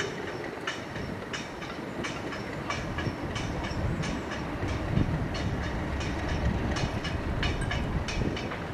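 A train rolling by, its wheels clicking over the rail joints in a steady, even rhythm above a low rumble.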